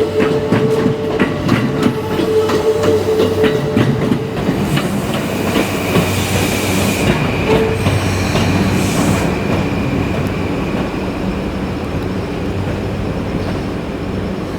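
Yokosuka Line electric commuter train moving slowly over a level crossing. Its wheels click over the rail joints for the first few seconds, then a steady high whine takes over above the running rumble.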